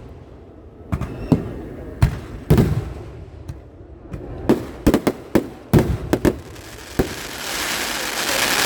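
Fireworks going off in a series of sharp bangs, about a dozen at irregular intervals, some in quick clusters. Near the end a steady, rising hiss of noise takes over.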